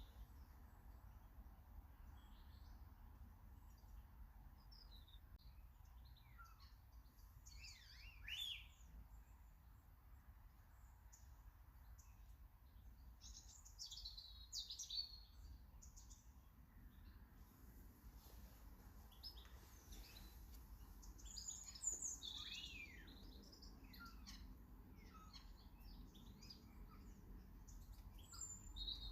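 Small garden songbirds chirping and singing in short scattered phrases, with clusters of calls about 8 seconds in, around 14 to 15 seconds, and around 20 to 23 seconds, faint over a low steady background rumble.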